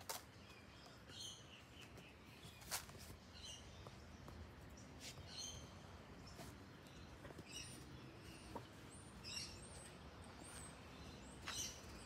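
Faint, short, high bird chirps every second or two, with a few sharp clicks in between, over a quiet outdoor background.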